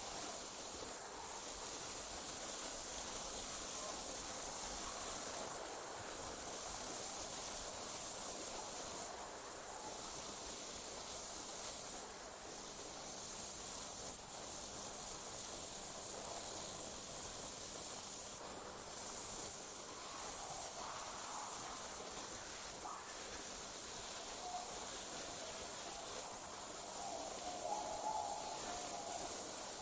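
Night crickets trilling in one continuous high-pitched trill that breaks off for a moment every few seconds.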